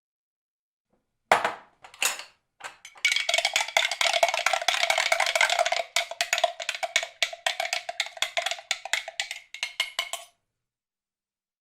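A horror sound effect: two sharp knocks, then a fast clattering rattle with a ringing tone running through it, which thins out into separate clicks and stops abruptly.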